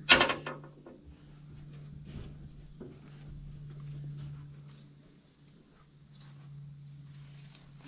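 A sharp knock of the camera being handled, then faint scattered clicks and rustles as it is moved, over steady insect chirring and a low hum.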